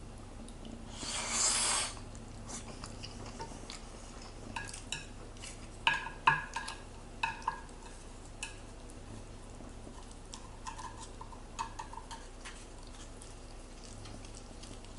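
Eating utensils clinking and tapping against a dish, short ringing clicks in two scattered runs, with a brief louder scrape of noise about a second in.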